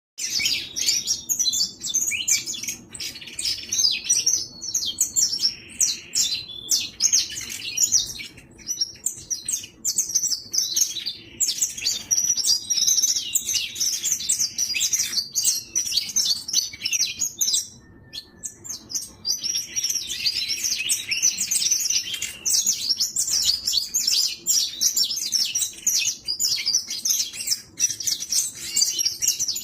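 Young canário-da-terra (saffron finch) singing: rapid, high chirps and trills run on almost without a break, pausing briefly twice.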